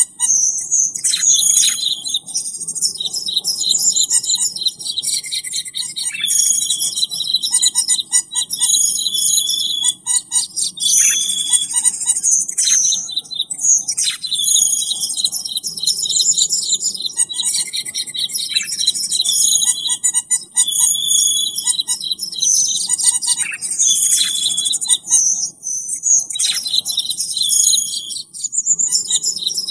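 Cucak keling bird lure call: dense, high chirping and twittering with quick trills, running on without a break. The same sequence repeats about every twelve seconds, as in a looped recording.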